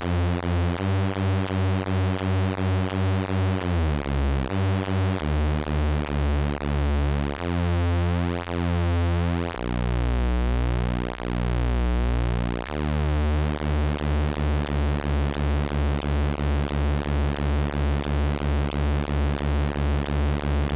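Frog semi-modular synthesizer, played dry with no effects: a low, pulsing electronic tone that throbs two or three times a second. Its pitch glides down about four seconds in and shifts in steps. In the middle the pulses slow to a few long swells, then quicken again near the end.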